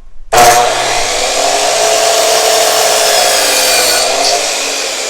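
Electric power saw cutting an angled line through a wooden board: it starts abruptly about half a second in and runs with a steady loud whine, easing somewhat in the last second.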